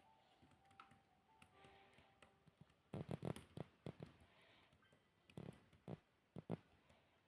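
Close-miked eating sounds: a few short clusters of crunchy chewing and crackling bites, starting about three seconds in, over faint background music.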